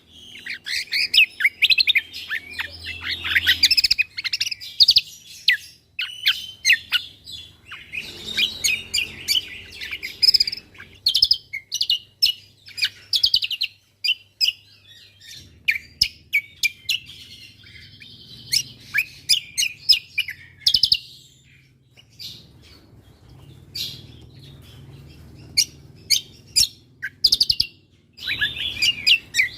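Cucak kombo songbird singing in rapid runs of sharp, high chirps and trilled 'shot' phrases, broken by a few short pauses, over a faint low hum.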